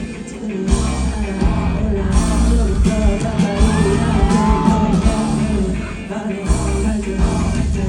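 Live pop-rock band music played loud over the PA, with a voice singing over it and some shouts from the audience.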